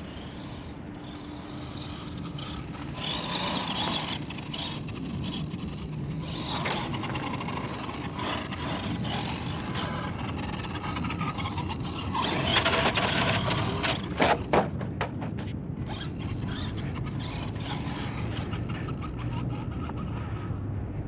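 FMS 1/10 Ford F-100 2WD RC monster truck driving on 3S over grass: its electric motor whines up and down with the throttle over steady drivetrain and tyre noise. About halfway through there is a burst of knocks and clatter.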